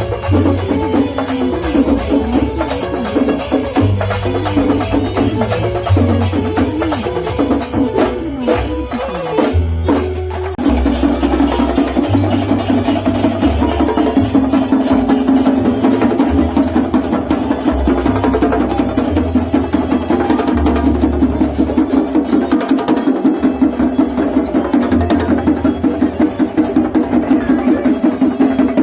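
Drum ensemble playing percussion music in a fast, steady rhythm. About ten seconds in it changes to a denser, louder, more even beat.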